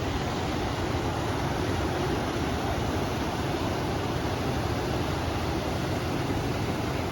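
River water rushing steadily, mixed with wind, an even unbroken noise without distinct events.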